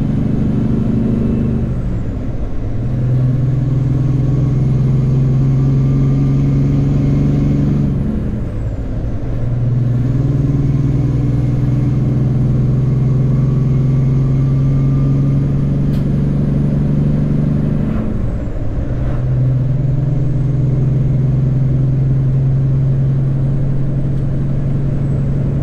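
Semi truck's diesel engine pulling through the gears: a steady drone broken by three shifts, about two, nine and nineteen seconds in, where the engine note drops and picks back up. A faint high whistle dips with each shift.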